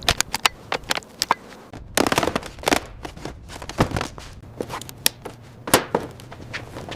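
An irregular series of sharp clicks and knocks, with a denser clatter about two seconds in and a few louder single knocks after it.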